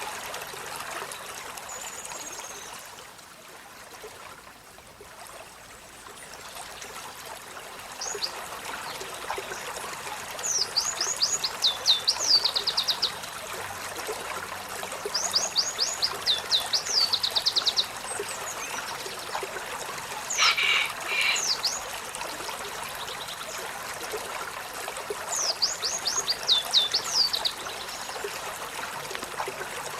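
Olive-backed sunbird singing: three quick phrases of high, rapidly repeated downward-sweeping notes, with a few single call notes in between. Underneath runs a steady trickle of water.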